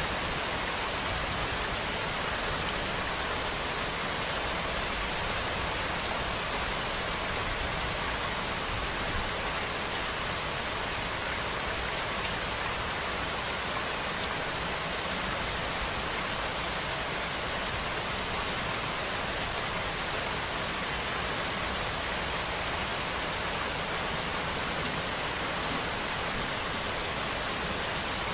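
Steady rainfall: a continuous, even hiss of rain with no change in strength.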